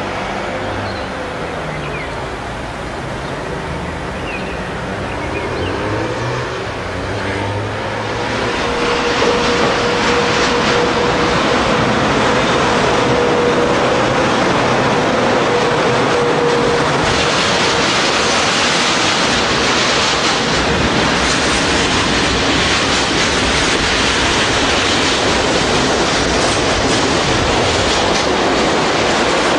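A German electric locomotive hauling a freight train of covered wagons passes close by, its wheels rumbling and clattering over the rails. The noise swells about eight seconds in and stays loud, with a steady thin tone from the train through the first half.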